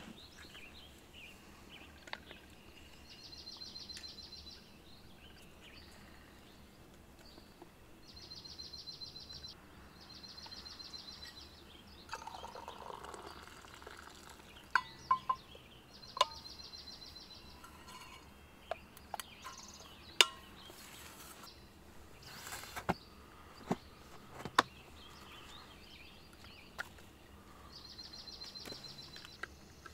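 A bird singing a short, high, rapidly pulsed trill, repeated five times a few seconds apart. Sharp clicks and knocks come in between, mostly in the second half.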